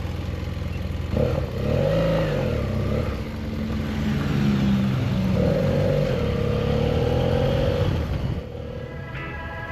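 BMW F800GS motorcycle's parallel-twin engine running under load, its pitch rising and falling several times as the rider opens and closes the throttle.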